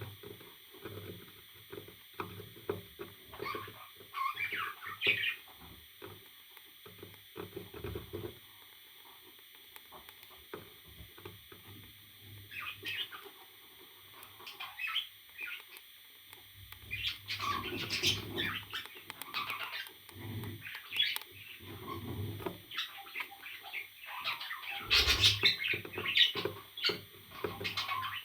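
Pet parrot chirping and squawking in short, scattered calls, with clicks and low thumps in between. The calls come thicker in the second half.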